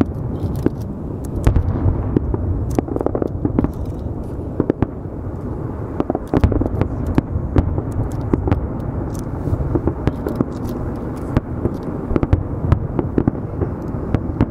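Aerial firework shells launching and bursting in quick succession: many sharp bangs and crackles a second over a continuous low rumble.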